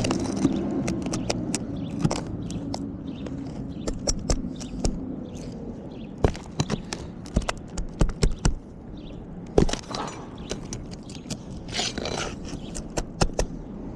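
A roofing tool working under asphalt shingles to free the roofing nails. It makes irregular sharp clicks, taps and scrapes, with a longer scrape about ten seconds in and another about twelve seconds in.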